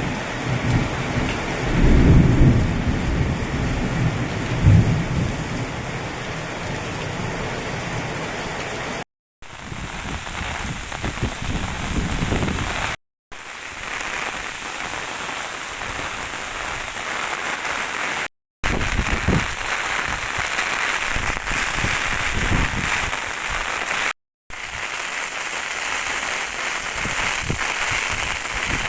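Heavy rain pouring in a steady hiss, with low rumbles in the first five seconds, loudest about two seconds in. The sound drops out briefly four times.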